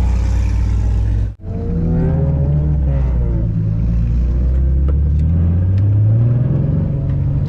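Vehicle engine running at low speed, with a low steady rumble. The sound cuts out abruptly for an instant about a second and a half in, and the engine's pitch rises near the end as it accelerates.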